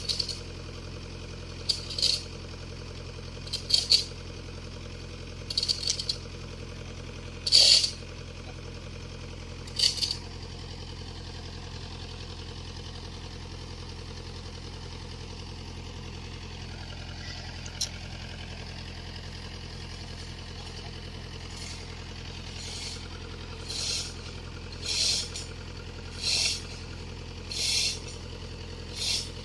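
Excavator diesel engine running steadily. Short, loud metallic rattles come about every two seconds in the first ten seconds, stop, then come again every second and a half or so near the end.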